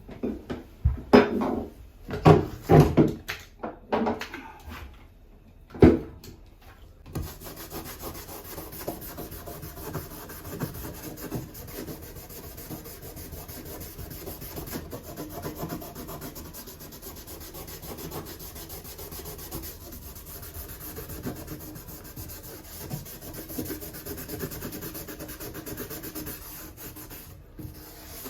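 A few loud knocks, then steady, rapid scraping and rubbing from about seven seconds in, like hand brushing or filing at a fitting during work on a bathroom faucet.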